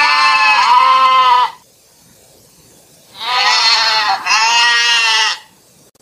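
Domestic goat bleating: two long bleats, the second starting about three seconds in, each wavering in pitch with a short break in the middle.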